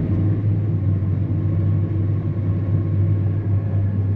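Combine harvester running with its threshing and auger drives engaged: a steady deep hum and rumble that steps up slightly at the start. The newly replaced belly auger, gearbox and bearings sound like they're running fine.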